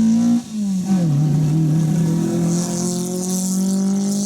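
Rally car engine under hard acceleration. About half a second in, the note cuts out briefly. It comes back lower and climbs steadily as the car pulls hard again.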